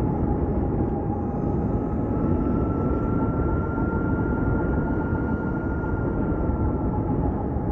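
Ather 450X electric scooter on the move: a steady high whine from its electric drive over heavy wind and road rumble. The whine's pitch climbs slightly about a second in and holds, easing back near the end.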